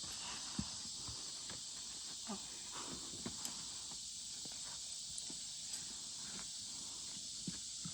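A horse's hooves shifting and stepping now and then, with scattered light knocks over a steady high hiss; a sharper knock comes about half a second in and another near the end.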